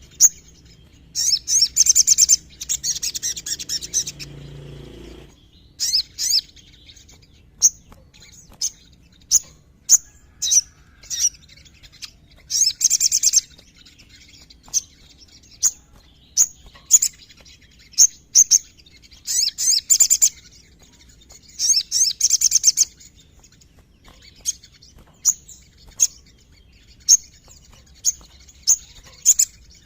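Sogon (ruby-cheeked sunbird) singing: short, sharp, high chirps about once a second, broken several times by rapid one-to-two-second trills.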